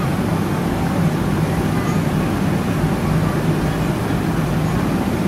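Steady cabin noise inside a Boeing 777-300ER airliner: an even rush of engines and airflow with a constant low hum.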